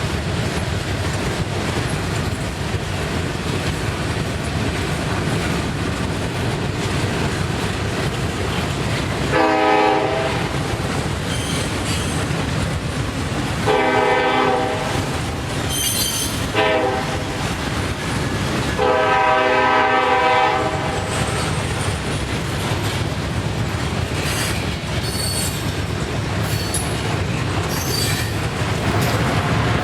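Freight train diesel locomotive sounding its air horn in the grade-crossing pattern: two long blasts, one short, then a longer one, about halfway through. Underneath, the train rumbles steadily on the rails, and there are faint high wheel squeals toward the end.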